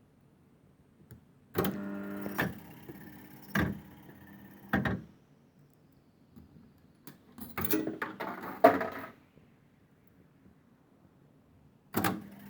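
Funworld Stars & Stripes fruit machine: a click sets the reel motor humming, then the reels clunk to a stop one after another, about a second apart. Later a short rattle of mechanical clicks and clunks from the machine, then a single click.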